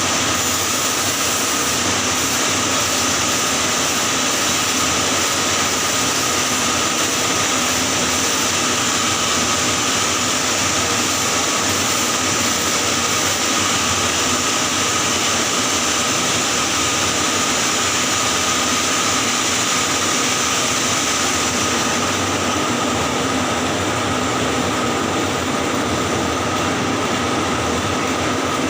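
Electric arc welding on a pipe joint in the 6G position: the arc burns steadily as one continuous hiss with no breaks.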